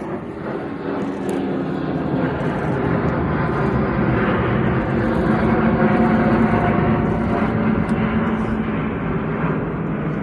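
Airliner taking off, its engines at takeoff power in a steady, loud roar that builds to a peak about six seconds in and then eases slightly.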